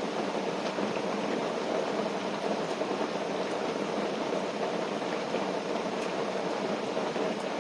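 Steady rain on tent fabric: an even, unbroken patter with a few faint ticks.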